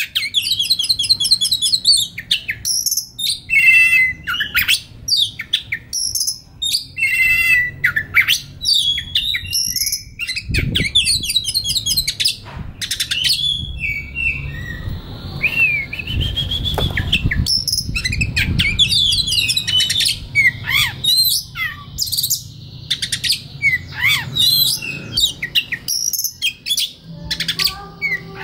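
Oriental magpie-robin (kacer) singing a long, varied song of clear whistles, slurred notes and rapid trilled phrases with only short pauses between them.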